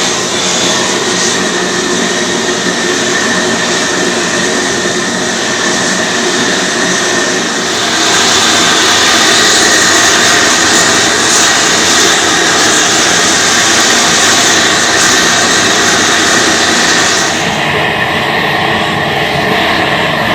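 Gas torches burning steadily as they heat a copper boiler for silver soldering, a continuous rushing hiss. It grows louder and brighter about eight seconds in, then its hiss drops back near the end.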